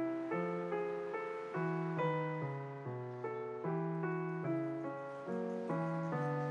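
Background piano music: an even run of notes over a slow, low bass line.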